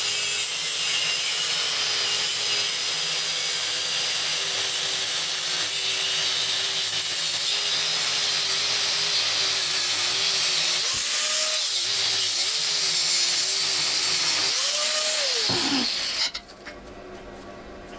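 Electric power tool cutting through a mild steel jaw blank, its motor pitch wavering under load over a steady cutting hiss. About 15 seconds in, the motor speeds up as the cut is freed, then winds down and stops.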